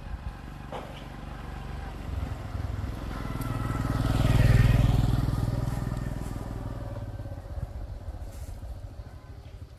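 A motor vehicle passing close by, its engine growing louder to a peak about halfway through and then fading away.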